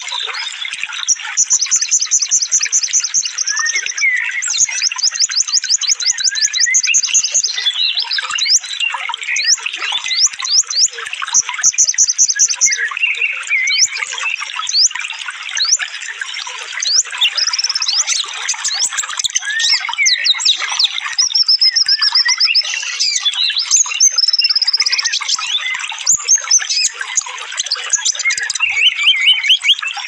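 Songbirds singing densely and fast, with rapid high-pitched trills and strings of quick repeated notes, over more chirping and warbling lower down, as if several birds sing over one another.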